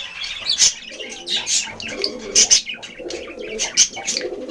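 Male budgerigar chattering in a rapid run of short, high chirps, his courtship warble to a hen.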